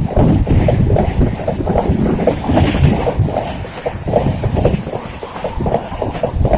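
A train running past close by, its wheels clattering over the rail joints in a fast, uneven rhythm over a loud rumble.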